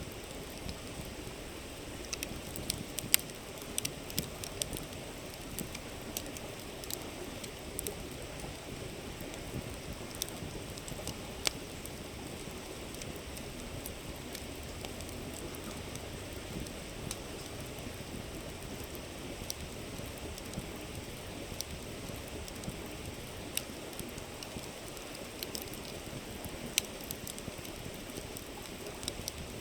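Wood fire crackling, with sharp irregular pops, over the steady rushing murmur of a river.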